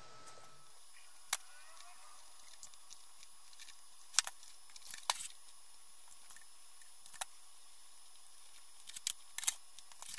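Scattered sharp clicks and taps from handling craft materials and tools at a work table, a few seconds apart with a small cluster near the end, over a steady faint hiss.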